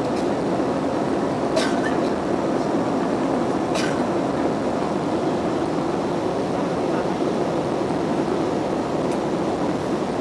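Airbus A320 in flight after takeoff: a steady jet rush, with two light clicks in the first four seconds.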